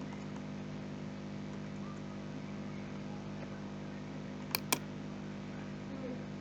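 Steady low electrical hum, with two sharp clicks at the computer a fraction of a second apart about four and a half seconds in.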